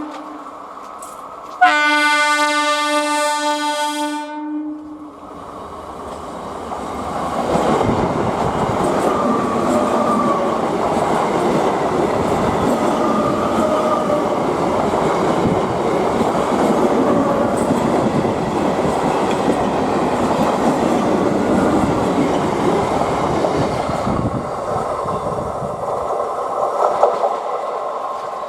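Medha EMU electric local train sounding its horn in one blast of about three seconds. It then passes close by, with a steady rush of wheels on rail joints and running gear for about twenty seconds, easing off near the end.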